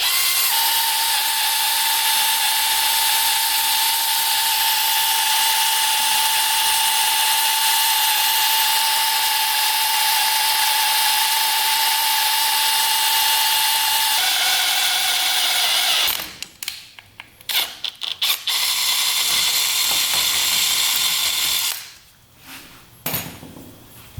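Power drill running steadily under load as it drills out stuck screws. It stops about two-thirds of the way through, gives a few short bursts, runs again for about three seconds, then stops.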